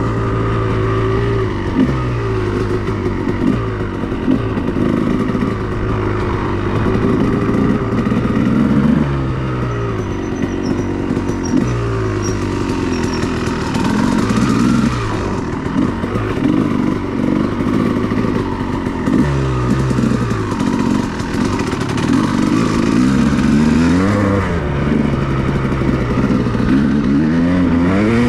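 2002 Honda CR250R's 250 cc two-stroke single-cylinder engine being ridden hard. It revs up and drops back over and over, its pitch climbing and falling every few seconds through throttle changes and gear shifts.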